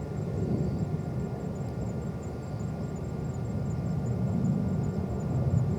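Distant jet engine rumble of a Boeing 737 climbing out after takeoff: a steady low rumble that grows a little louder in the second half.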